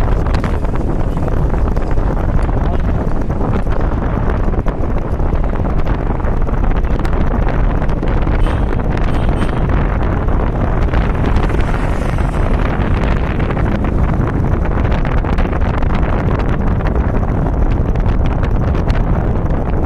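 Loud, steady wind buffeting the microphone while travelling along a road, with a low rumble underneath.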